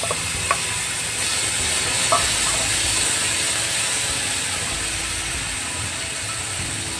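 Wet mustard paste sizzling steadily in hot oil in a frying pan, with two or three light clicks in the first couple of seconds.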